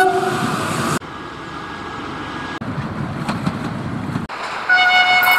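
Trains passing in a string of abruptly cut clips. A brief horn toot comes right at the start, then train running noise, then a loud, steady multi-tone train horn from about five seconds in.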